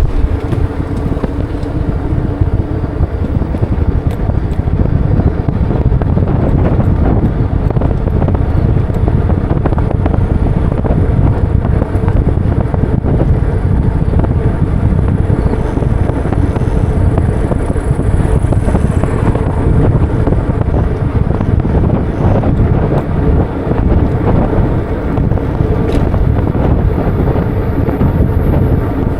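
Wind rushing over the microphone of a moving bike, a steady low rumble, with street traffic underneath.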